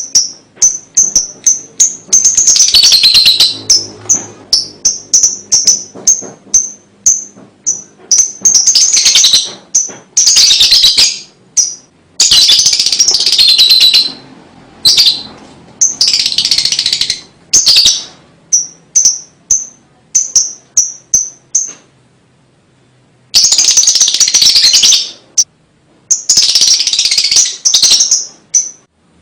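Lovebird singing: runs of short high chirps, a few a second, broken every few seconds by long rapid chattering trills (the 'ngekek') of one to two seconds each, with a pause of over a second about three quarters of the way through.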